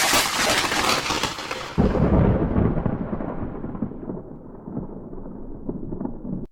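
Thunder: a sharp crackling clap, a second heavy low boom about two seconds in, then a rolling rumble that grows duller and fainter before cutting off abruptly.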